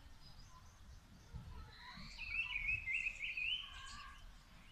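A small songbird singing a quick, chattering phrase of notes about two seconds in, with a few fainter bird calls around it over faint low background noise.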